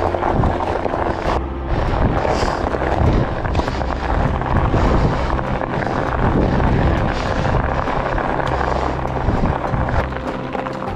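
Wind rumbling and buffeting on the microphone of a camera carried on a moving fatbike, as a steady loud roar.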